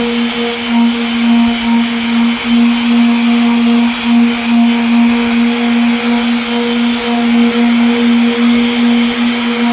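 Electric sander running steadily against a headlight lens: a constant motor hum with a hiss of abrasion, its loudness wavering slightly as the tool is moved.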